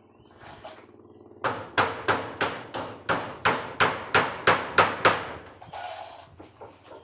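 A hammer striking about a dozen times in quick, even succession, some three blows a second, starting about a second and a half in: nailing up fibre-cement wall sheets.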